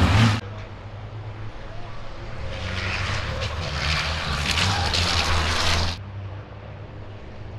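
Racing trucks' diesel engines running on the circuit. The sound swells over a few seconds as trucks come by, then drops off abruptly about six seconds in to a quieter engine hum.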